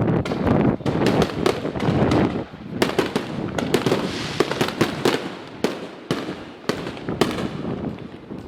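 Fireworks bursting overhead in quick, irregular succession: a dense run of sharp bangs and crackles over a rumbling background.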